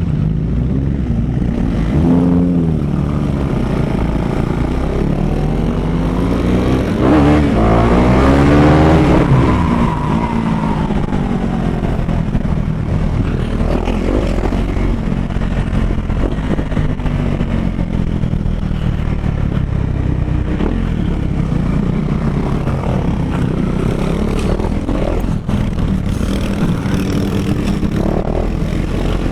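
KTM Duke 390 single-cylinder motorcycle engine under way, rising and dropping in pitch as it accelerates through the gears. The loudest rising rev comes about seven to ten seconds in, then it settles to a steadier drone.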